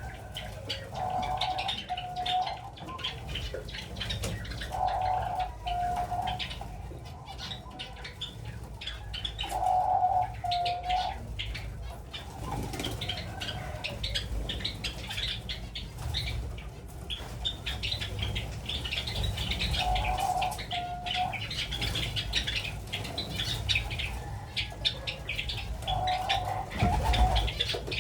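Doves cooing, about five low coos each lasting about a second and spaced several seconds apart. Java sparrows chirp and twitter constantly in between, with wings flapping.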